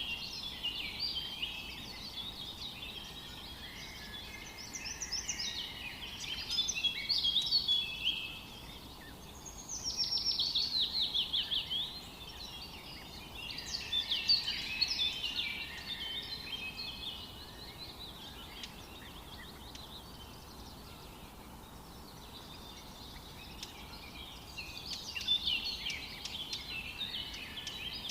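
Songbirds singing in a forest: several bursts of quick chirping and rapid trills, a few seconds each, with short lulls between them, over a faint steady hiss.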